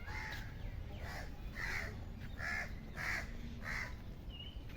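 Crows cawing, a series of about six harsh caws a little under a second apart.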